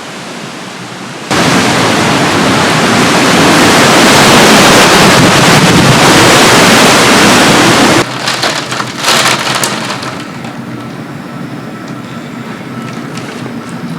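Hurricane-force wind and heavy rain, a dense rushing noise. It suddenly becomes much louder about a second in and drops sharply around eight seconds, followed by a couple of gusty surges and then a quieter steady rush of wind and rain.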